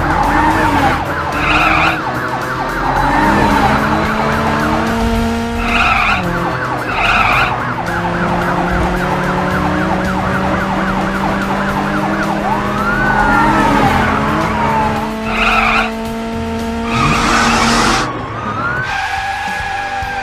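Cartoon soundtrack of car sound effects, with engine hums and tyre skids, mixed with background music. A couple of sliding pitch glides come about thirteen seconds in and again near the end.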